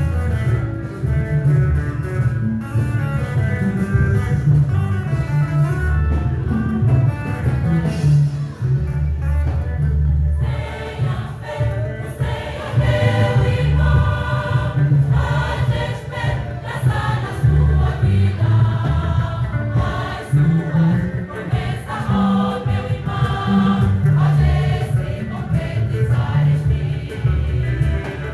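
A choir singing gospel music over an instrumental band with a heavy bass line; the voices come in fuller about ten seconds in.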